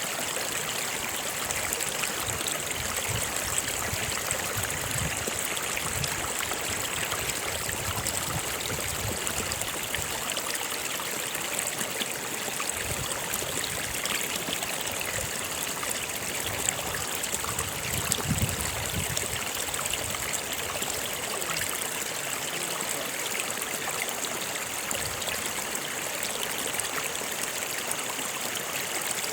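A stream flowing steadily over rocks, a continuous rush of water with small trickles and gurgles.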